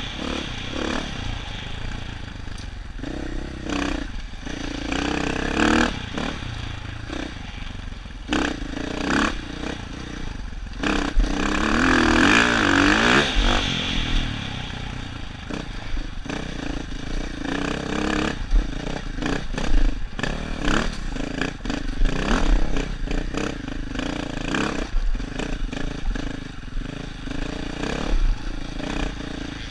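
Dirt bike engine running on a rough trail, its revs rising and falling and swelling to its loudest about twelve seconds in, with frequent knocks and clattering throughout.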